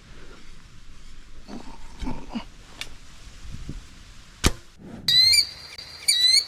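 Faint rustling, then a single sharp crack about four and a half seconds in. A bird then calls loudly twice, about a second apart: short harsh calls, each rising at the end.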